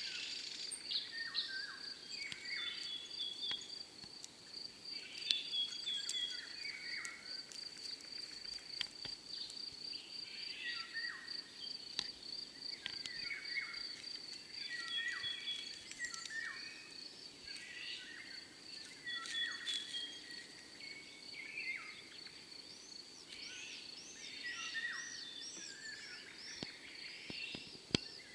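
Forest birdsong: many birds chirping and calling, with short phrases overlapping, over a steady high, fast-pulsing trill, and a run of repeated rising-and-falling high notes near the end.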